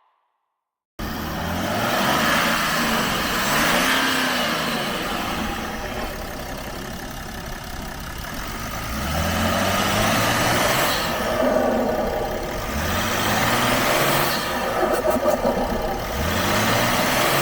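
BMW E60 535d's twin-turbo 3.0-litre straight-six diesel engine accelerating hard, its note rising several times and dropping back in between.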